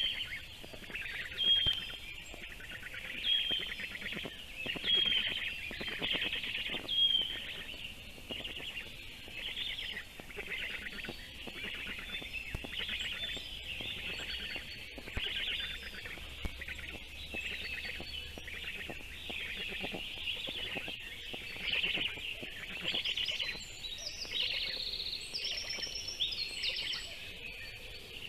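Birds chirping: a dense run of rapid high calls throughout. For the first several seconds a short bright call repeats every couple of seconds.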